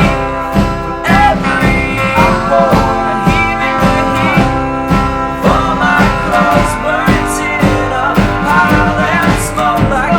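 Band music: an instrumental stretch of a guitar-based song, with a steady beat and bending guitar notes, between sung lines.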